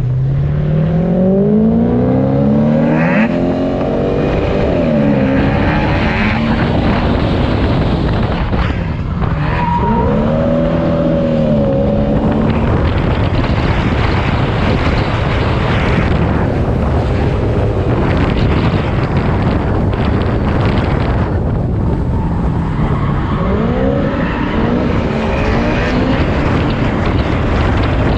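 Supercharged V8 engine of a Toyota Soarer drift car revving hard, its pitch climbing and dropping several times, over a steady loud rushing of wind and tyre noise.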